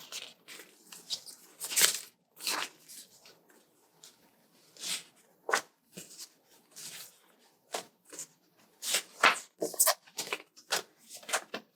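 Paper sticker sheets being handled and leafed through: irregular rustling and crinkling, some sounds louder than others.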